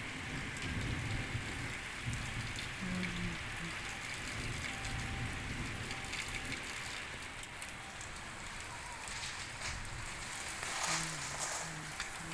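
Steady rain falling, an even hiss with the patter of drops striking a surface.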